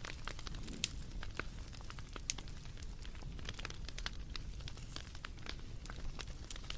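Wood fire crackling: irregular sharp pops and snaps over a low steady rumble, with two louder pops, one about a second in and another a little past two seconds.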